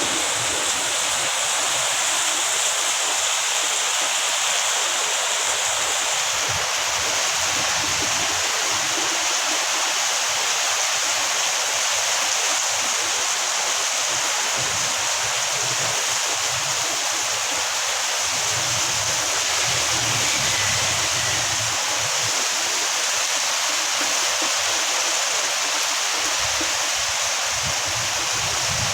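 Heavy rain pouring down in a steady, dense hiss, with low gusts of strong wind now and then.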